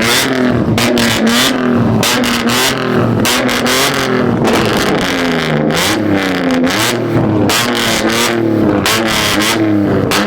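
Car engines revving repeatedly, their pitch rising and falling, with frequent sharp cracks throughout.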